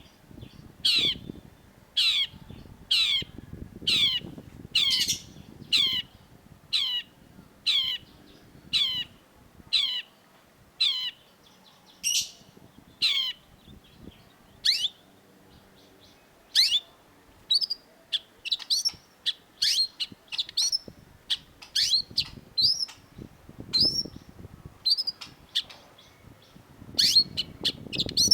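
Long-tailed shrike calling: a harsh note falling steeply in pitch, repeated about once a second, then from about halfway through shorter, quicker notes, bunched more closely near the end.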